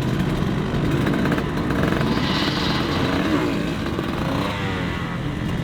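Dirt bike engine running and revving, its pitch rising and falling.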